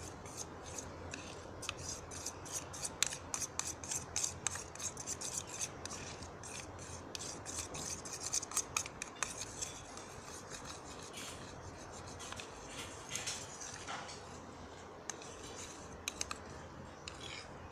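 A spoon stirring a runny mix of PVA glue, water and colouring in a container, scraping and clicking quickly against the sides. The clicks come thick and fast in the first half and grow sparser later.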